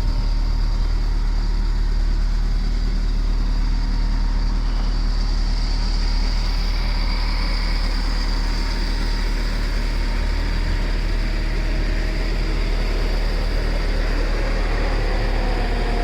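Vehicle engine idling steadily after a cold start.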